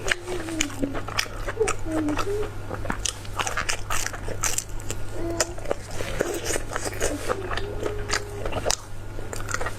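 Close-miked chewing and biting of food, a dense run of short crunchy and wet mouth clicks, over a low steady hum.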